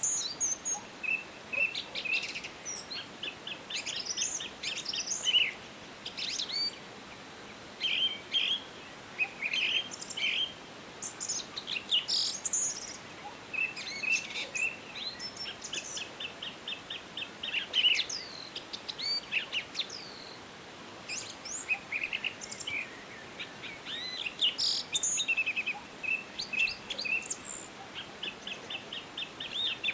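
Several birds singing and calling in a forest, with overlapping chirps and rapid trills throughout, over a faint steady background hiss.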